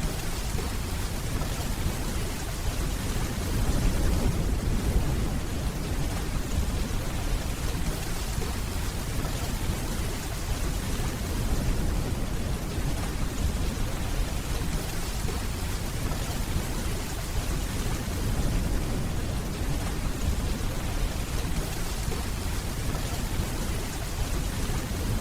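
Steady rainfall with a low rumble of distant thunder underneath, swelling a little about four seconds in and again around twelve seconds.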